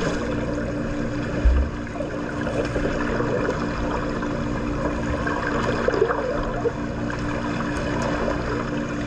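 Swimming-pool water sounds: continuous splashing and sloshing, over a steady low hum, with a brief low thump about a second and a half in.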